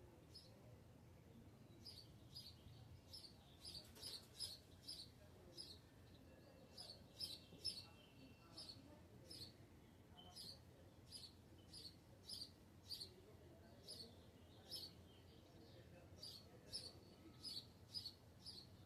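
A bird chirping faintly, short high notes repeated about two a second, starting about two seconds in with a few brief pauses.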